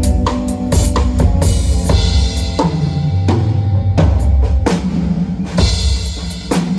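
Live drum kit playing a steady groove of kick and snare hits, over sustained bass notes that change pitch every second or so.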